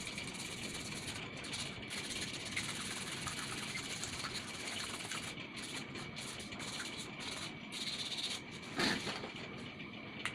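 Fine sandpaper rubbing by hand on a brass water-pump part, a steady scratchy hiss as scale is scoured off, with a brief louder sound about nine seconds in.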